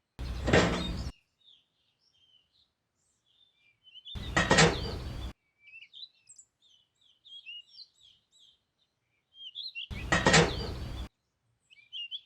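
Small birds chirping in quick, scattered calls, broken three times by a loud noisy burst about a second long that starts and stops abruptly: near the start, about four seconds in and about ten seconds in.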